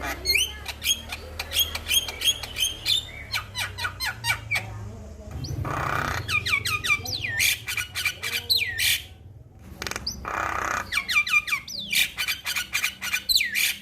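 Male Javan myna (jalak kebo) calling: quick runs of short whistled notes, broken twice by longer harsh, rasping calls, once just before the middle and again past it.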